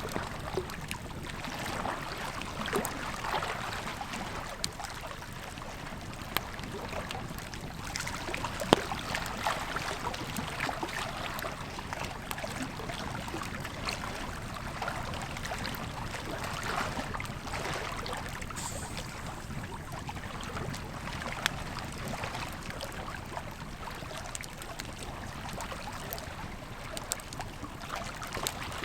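Wood campfire crackling with scattered sharp pops over the steady rush of a flowing river; a few pops stand out louder, one about nine seconds in and another past twenty seconds.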